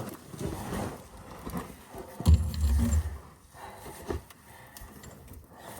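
Handling noise from wrestling a stiff hydraulic hose and its fittings into place: light metallic clinks and rubbing, with a louder low rumbling thump about two seconds in.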